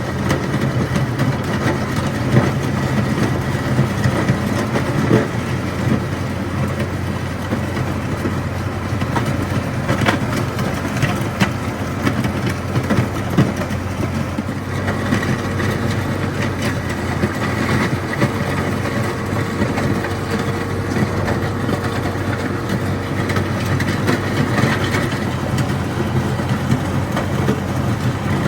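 Engine running steadily at a constant speed, with scattered crackles and clicks over it.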